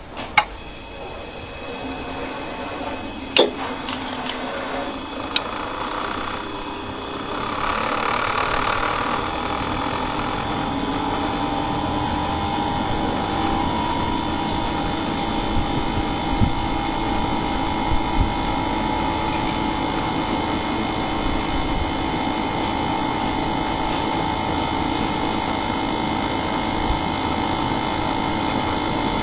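Inverter air conditioner starting up: a few sharp clicks, then a steady machine hum that builds over the first couple of seconds and runs on evenly with a constant high thin whine.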